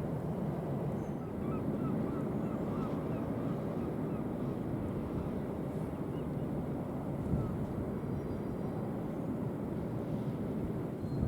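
Steady low rumble of wind on the microphone mixed with the drone of ferry engines, with a few faint high chirps about one to three seconds in.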